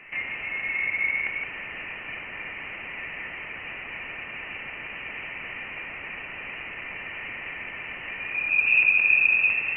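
Voyager 1 plasma wave instrument signal from interstellar plasma, played as audio: a steady high hiss with a whistling tone that swells about a second in and a louder, higher tone near the end. The pitch of the tone tracks the density of the interstellar plasma.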